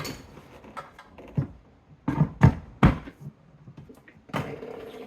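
Clunks and knocks of plastic dishwasher parts (filter assembly and baskets) being fitted back into a Samsung dishwasher's tub, with a few sharp knocks in the middle. A steady low hum starts near the end.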